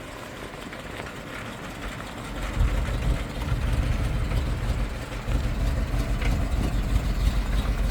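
Agricultural fire truck's engine running at idle, a steady low rumble that comes in sharply about two and a half seconds in.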